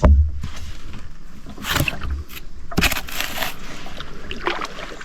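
Kayak paddle strokes in water, a few swishing splashes about a second apart, with a low thump right at the start.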